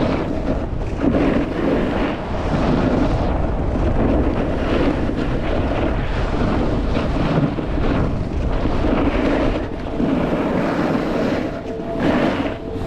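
Wind buffeting the microphone at riding speed, mixed with a snowboard sliding and scraping over snow, surging and easing in loudness throughout.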